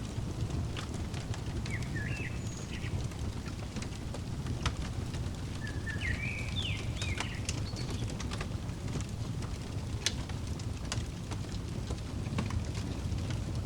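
Crackling fire: a steady low rumble of flames with scattered sharp pops and snaps. A small bird chirps briefly about two seconds in and again in a short run of chirps around the middle.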